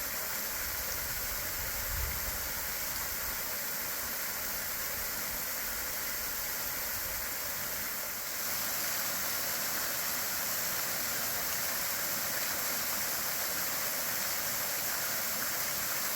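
Waterfall running through its ice, a steady rushing hiss of falling water; it grows slightly louder a little past halfway.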